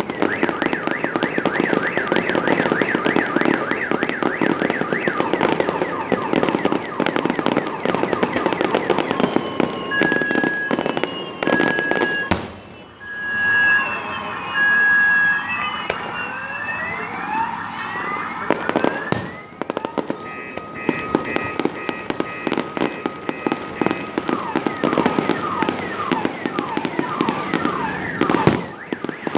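Fireworks going off: dense continuous crackling and popping, with a few louder sharp bangs. From about ten seconds in, a car alarm sounds over them with repeated beeps and rising, sweeping wails.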